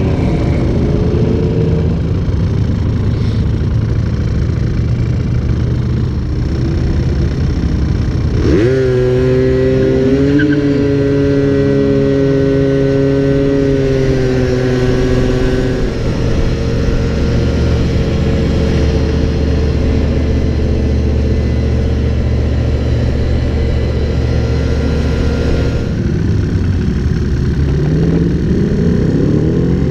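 Motor vehicle engines running continuously. A higher-pitched engine note cuts in about eight seconds in and holds for several seconds, and an engine rises in pitch near the end as it revs or speeds up.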